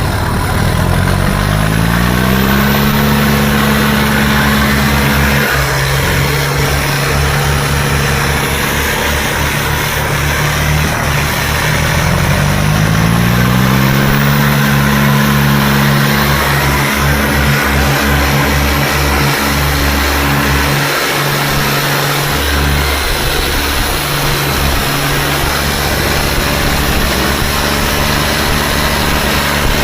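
Tractor diesel engine revving up twice and held at high revs, as in a tractor tug-of-war where the engine labours under a heavy pull.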